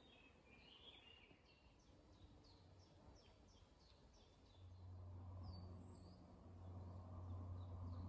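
Faint woodland birdsong: a small bird repeating short, high, falling chirps. A low steady hum comes in about halfway through.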